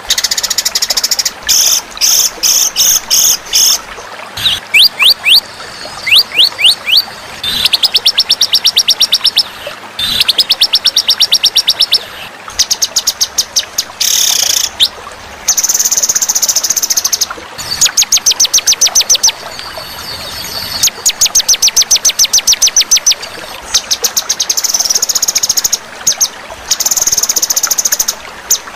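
Recorded songbird song used as a masteran tutor track: fast, high trills and chattering runs of rapidly repeated notes in bursts of one to two seconds with short gaps, with a few quick falling whistle notes about five seconds in.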